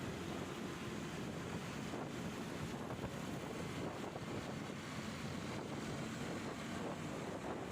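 Wind rushing over the microphone of a moving motorcycle, with the motorcycle engine running steadily underneath.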